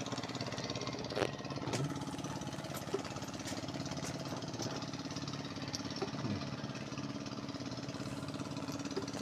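An engine idling steadily with a fast even pulse, and a few short metallic clicks in the first two seconds.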